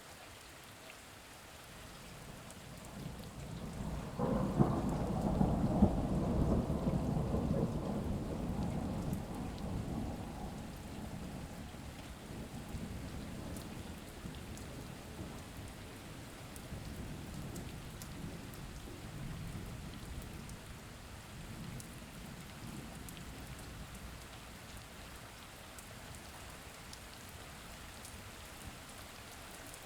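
Steady rain falling, with a long low roll of thunder that swells in about four seconds in and slowly dies away over the next several seconds.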